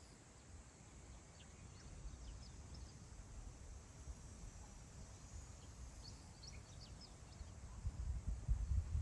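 Wind blowing over open grassland, a low rumble on the microphone that swells into stronger gusts near the end, with faint short bird chirps scattered through.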